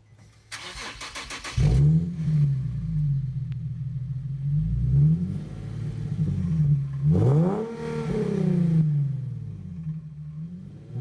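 Infiniti G37 sedan's 3.7-litre V6 exhaust with the muffler deleted: the starter cranks for about a second, the engine catches with a loud flare, then it is revved in a series of throttle blips, the pitch rising and falling each time.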